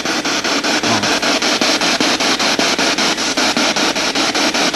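Spirit box sweeping through radio stations: loud radio static chopped rapidly and evenly, about six times a second, as it scans.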